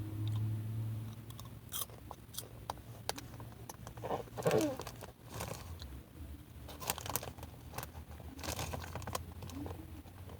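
Popcorn being chewed close to the microphone: irregular crisp crunches scattered throughout, over a low steady hum.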